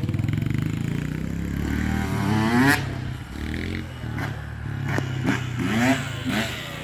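Small off-road bike engines running on a dirt track, with one engine revving up in rising pitch about two seconds in and again in several short rises near the end.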